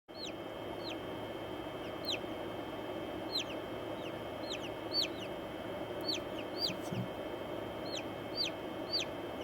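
Newly hatched or hatching chick peeping: a steady run of short, high chirps that each fall in pitch, about one and a half a second, over a steady low hum.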